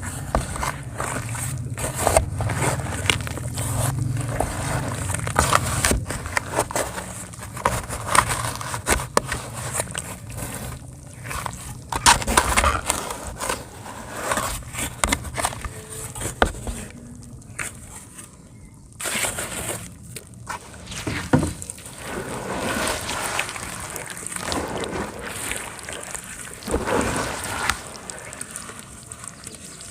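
Dry pure cement crumbling and crunching, falling onto wet cement paste, with many quick crackles and scrapes that ease off briefly a little over halfway through.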